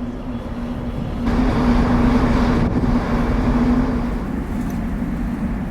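Steady vehicle engine drone: a low rumble with a constant hum, getting louder about a second in.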